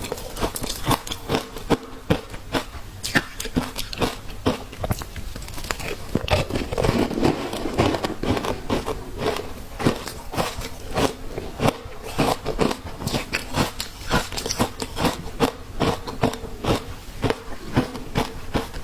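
A person biting and chewing frozen matcha ice in a steady run of sharp crunches, about two to three a second.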